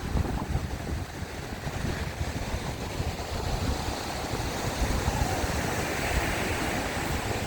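Heavy surf breaking and washing up the beach in a strong onshore wind, with wind buffeting the microphone in a constant low rumble. A brighter surge of surf wash builds about five seconds in.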